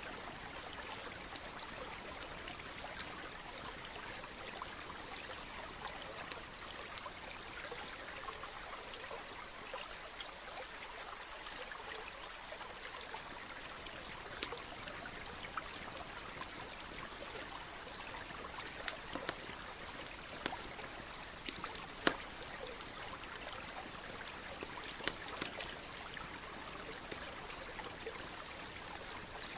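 Steady rushing of a flowing stream, with a campfire crackling over it: scattered sharp pops, the loudest about two-thirds of the way through and a small cluster near the end.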